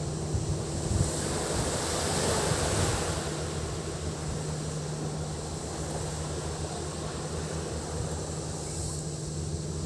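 Sea waves washing up on the beach, one wave swelling louder about two seconds in. Wind buffets the microphone with a low rumble, and a steady high drone of cicadas runs underneath.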